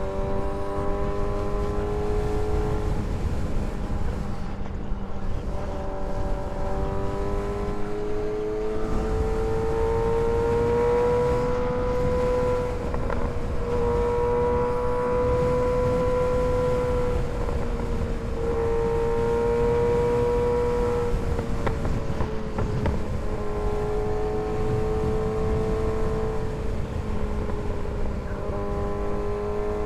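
Kawasaki ZX-6R 636 inline-four engine running under way, its note rising, holding and dipping several times as the throttle and gears change, with wind rumble on the microphone.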